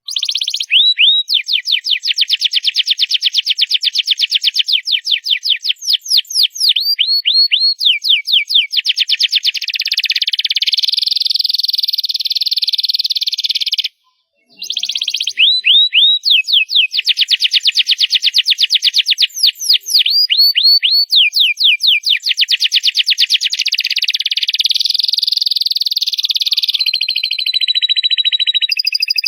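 Domestic canary singing loudly in long, fast trills of rapidly repeated notes mixed with sweeping chirps, breaking off briefly about halfway through before carrying on.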